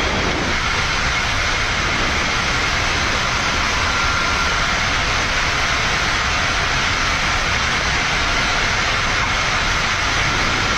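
Steady rush of airflow and engine noise on the flight deck of a Boeing 787-9 climbing out after takeoff.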